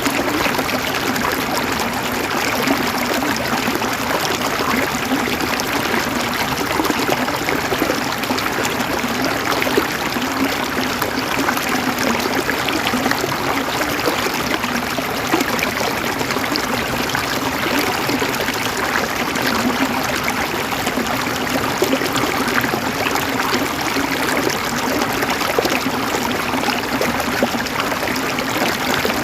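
Flowing water running steadily, with no breaks or changes.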